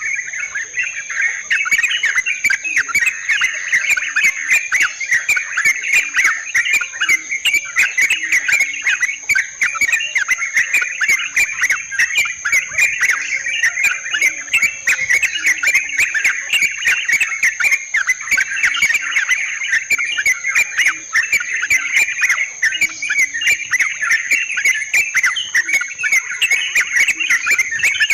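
Yellow-vented bulbuls (trucukan) chattering in a continuous, busy stream of bubbly calls, played as a bird-trapping lure. A steady high-pitched tone runs underneath.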